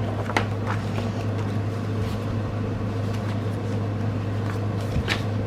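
Steady low electrical-sounding hum, with a few brief soft clicks or rustles of handling near the start and again near the end.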